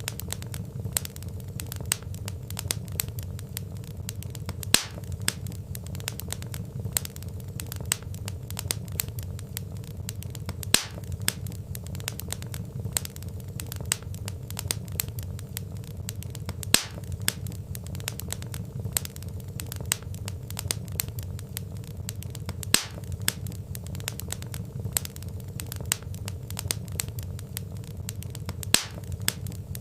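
Wood fire crackling: a dense run of small sharp crackles over a steady low rumble of the flames, with a louder pop about every six seconds.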